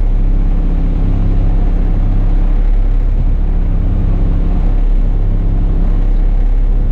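Diesel bus engine running steadily, heard from the driver's cab as a constant low drone with a steady hum.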